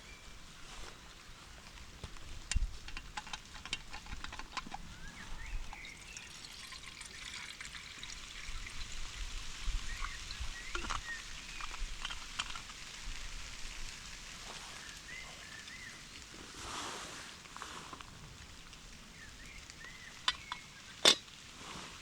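Steady patter of rain, with rustling and knocking of camping gear being unpacked and handled, and a sharp click near the end.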